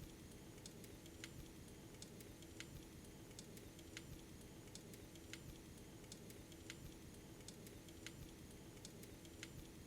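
Faint toy or model train running on its track, its wheels clicking over the rail joints at an even pace of about one sharp click every second and a half, over a steady low motor hum.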